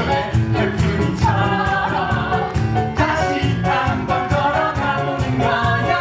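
Musical-theatre song sung live over band accompaniment with a steady beat.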